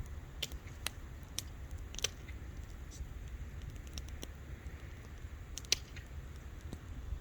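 Wood fire crackling: irregular sharp pops and snaps, a few a second, with one louder snap late on, over a low steady rumble.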